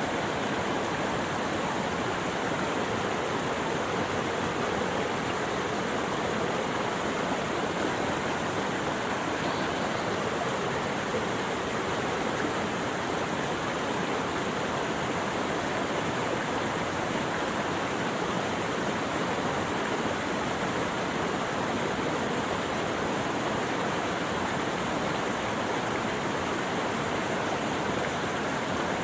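Running water rushing steadily, an even, unbroken wash of noise.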